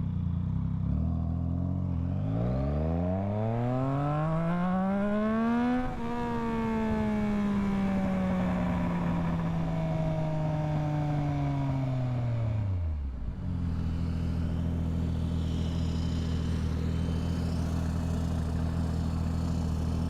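Yamaha MT-09 three-cylinder motorcycle engine idling, then pulling away with the revs rising for about four seconds. The revs then ease off gradually and drop back to a steady idle about thirteen seconds in.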